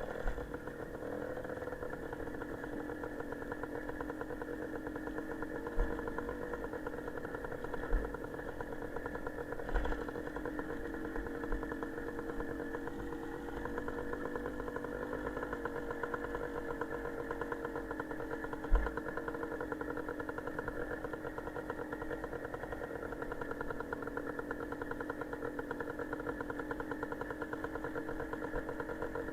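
Motorcycle engine running at a steady speed, with a few sharp low thumps on the microphone.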